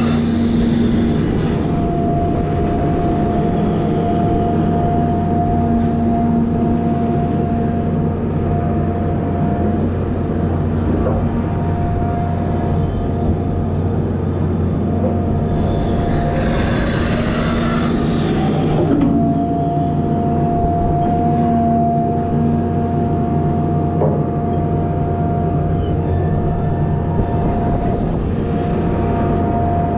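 Volvo A25G articulated haul truck running, a steady diesel drone with a high whine that comes and goes. There are two stretches of louder hissing noise, one at the start and one from about fifteen to nineteen seconds in.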